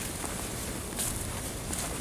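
Scattered crunching footsteps in snow, over a steady low rumble of wind on the microphone.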